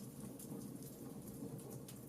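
Fire burning in a fireplace: a steady low background of flames with scattered sharp crackles and pops.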